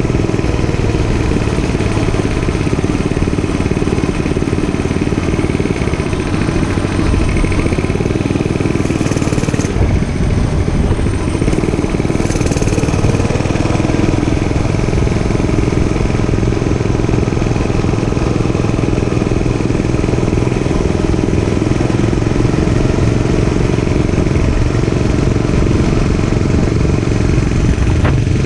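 Dirt bike engine running steadily, a loud unbroken engine sound with no clear revs up or down.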